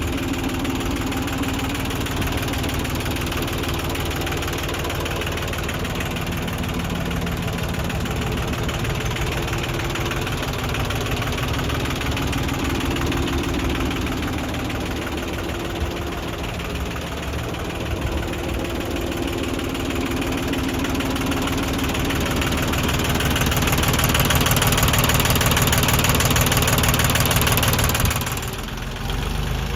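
Yanmar 2220D compact diesel tractor engine running at idle, then speeding up and running louder from about 23 seconds in, and dropping back sharply near the end.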